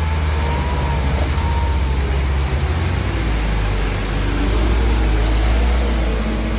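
Heavy diesel engine running steadily under load, a deep low rumble with a fast even pulse.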